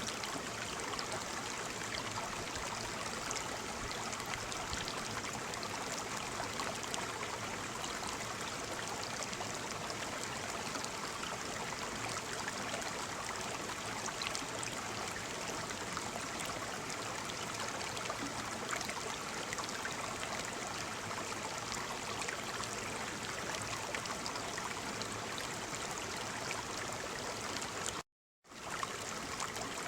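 Waterfall: a steady rush of falling water. The sound cuts out completely for a split second near the end, then resumes.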